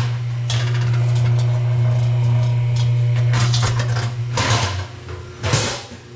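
A milk pasteurizer's machinery hums steadily while it cools, with several metal clanks and rattles of equipment being handled over it.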